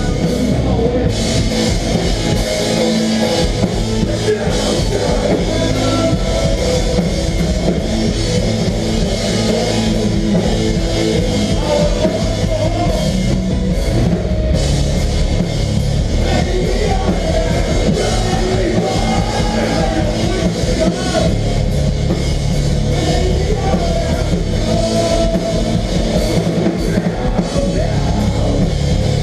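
Melodic hardcore band playing live: distorted guitars, bass and a drum kit with steady cymbal wash, loud and unbroken.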